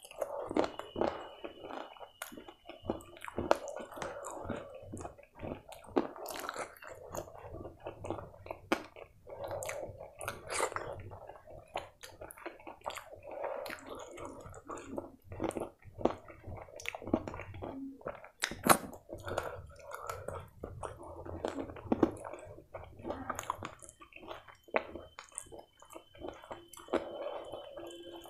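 Close-miked chewing and wet mouth sounds of someone eating chicken curry and rice by hand, with frequent irregular smacks and clicks, one of them louder about two-thirds of the way through.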